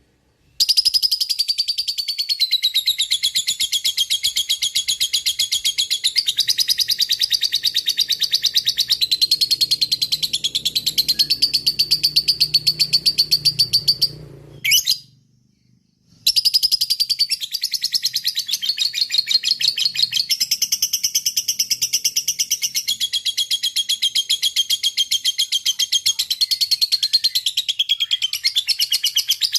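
Lovebird's long 'ngekek' song: a rapid, unbroken chattering trill of high notes. It stops for about two seconds halfway through, with one short burst in the gap, then goes on again.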